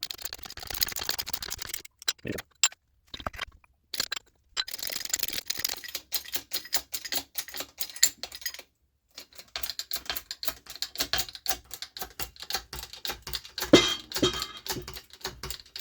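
Rapid, irregular metallic clicking and ticking as the supercharger's timing gears are pressed back onto the rotor shafts in stages, with two short pauses and one louder click near the end.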